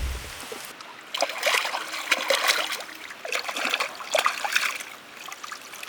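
Water splashing and trickling in two bouts of about a second and a half each, as something is moved about in water.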